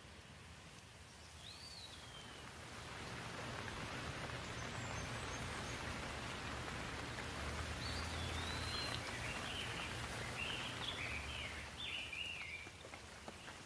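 Steady rain noise that swells over the first few seconds and eases near the end, with birds calling: one down-slurred whistle early, then a run of quick chirps in the second half.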